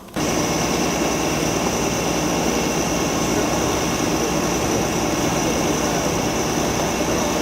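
Chimney fire roaring steadily as the soot in an old flue is burnt out, a constant rushing roar with a faint high whine on top that starts abruptly.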